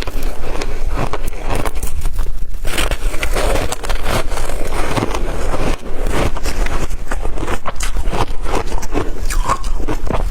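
Shaved ice being bitten and crunched close to the microphone, a dense, uneven run of crackling crunches.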